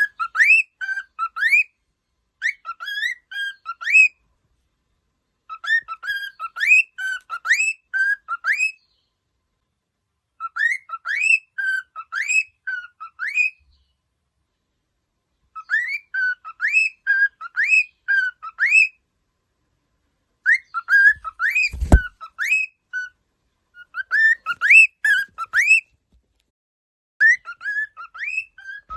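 Cockatiel singing: phrases of clear, rising whistled notes, repeated again and again with short pauses between them. A single low thump about two-thirds of the way through.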